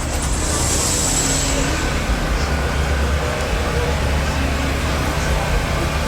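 Very loud deep bass from a car audio system's subwoofers, low notes holding and shifting, over a hiss of outdoor background noise.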